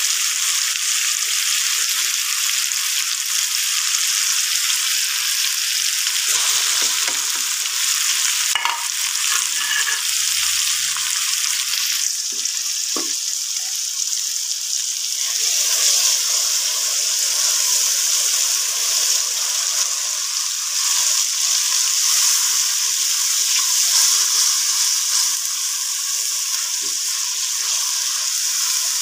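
Onions, then chopped tomatoes, frying in hot oil in a nonstick pan: a steady sizzle while a silicone spatula stirs, with a couple of sharp knocks about nine and thirteen seconds in.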